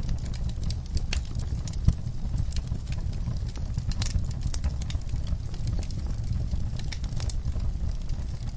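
Wood fire burning in a fireplace: a steady low rumble of flames with frequent sharp crackles and pops, one louder pop about two seconds in.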